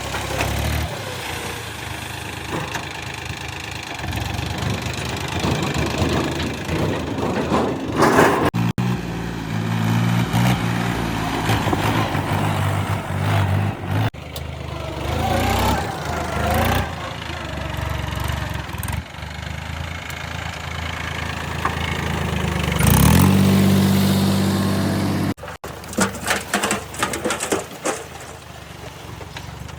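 Heavy diesel engines of the backhoe loader and farm tractors running, with abrupt changes between passages. One engine revs up about three quarters of the way through.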